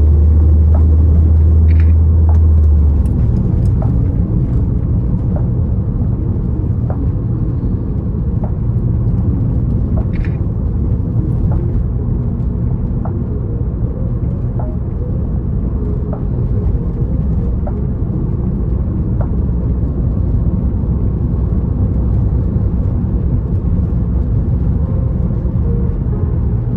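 Inside the cabin of a 2007 Toyota Corolla Altis while driving: steady low engine and road rumble. The low hum shifts about three seconds in.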